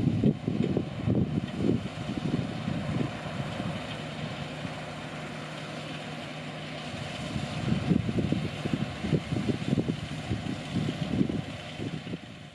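Heavy farm machinery diesel engine running at a steady pitch, with uneven low rumbling over it.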